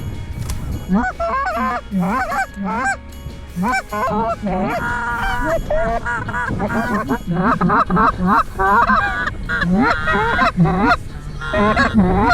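Geese honking, many short overlapping honks in quick succession that start about a second in and keep up densely.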